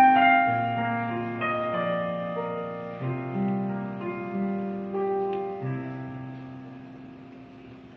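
Piano playing a slow instrumental passage: melody notes over held chords, each struck and left to ring, growing softer toward the end.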